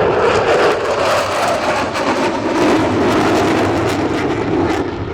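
Two military jets making a fast, low pass for a carrier break, their engines loud and continuous, the pitch sinking slightly as they go by.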